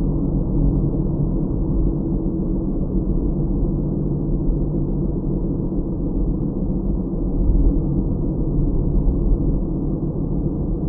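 Steady low rumble of a car being driven, with tyre and engine noise heard inside the cabin, running evenly with no distinct events.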